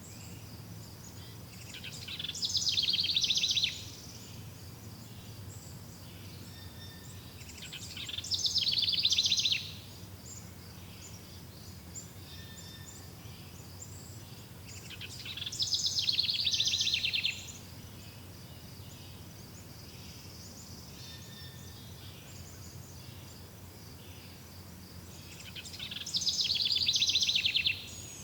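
Natural outdoor ambience. A loud, rapidly pulsed high trilling call comes four times, each building for a second or two and then cutting off suddenly. Under it runs a steady high chirring with scattered faint short calls.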